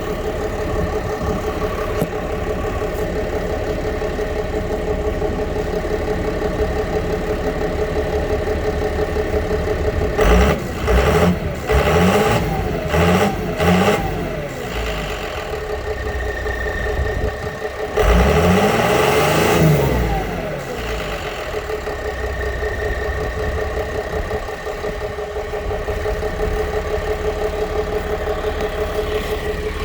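2006 Ford LCF's diesel engine idling steadily, then blipped in about four quick revs a third of the way in and given one longer rev later on, each time falling back to idle.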